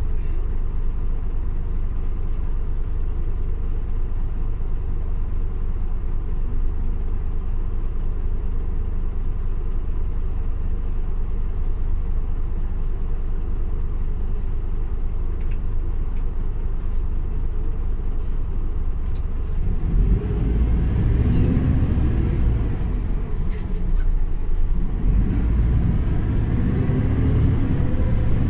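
Scania OmniLink CL94UB city bus engine running steadily and low for about twenty seconds, then growing louder as the bus accelerates. The pitch rises, drops briefly around a gear change, and rises again.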